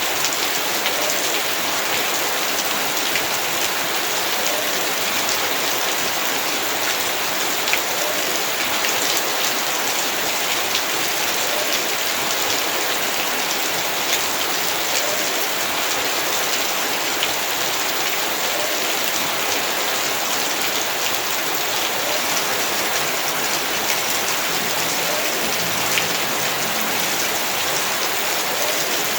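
Heavy rain falling steadily in a yard: a dense, even hiss with many individual drops ticking on surfaces.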